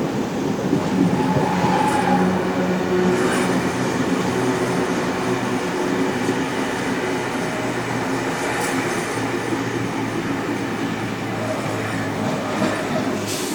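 Passenger train running along the track: a steady rumble of wheels on rail, with a few sharp clicks scattered through.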